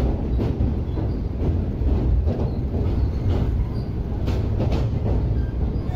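Train running across a steel truss bridge, heard from a carriage window: a steady low rumble with irregular clacks of the wheels over the rail joints.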